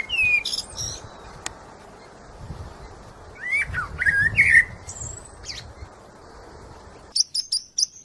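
Small birds chirping, scattered short whistled calls that slide up and down in pitch, over a steady background hiss, with a quick run of chirps near the end.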